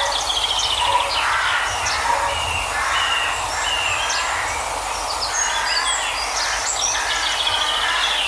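Several songbirds singing, with many short chirps and quick trills overlapping, over a steady background hiss of outdoor ambience.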